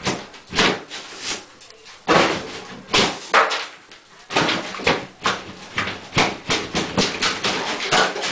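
Drywall being broken and pulled off a wall by hand and hammer: an irregular run of cracks, crunches and knocks, with a couple of short pauses.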